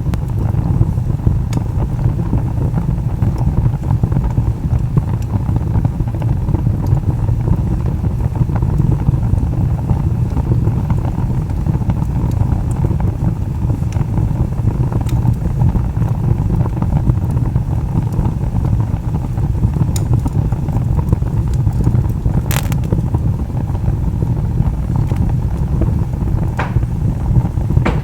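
Wood fire burning with a steady low roar and scattered small crackles, and a sharper pop about two-thirds of the way through and another near the end.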